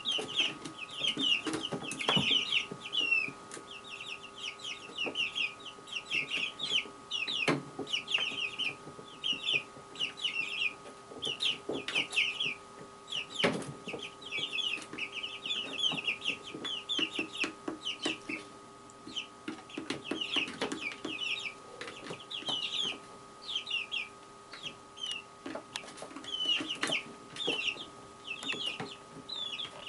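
Small songbirds chirping continuously outdoors around a bird feeder: a steady stream of short, high chirps, several a second. A faint steady hum lies beneath, and there are a couple of sharp clicks, one about 7 seconds in and one about 13 seconds in.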